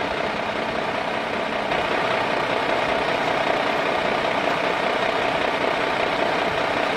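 Radio-controlled sand truck running with a steady engine-like noise.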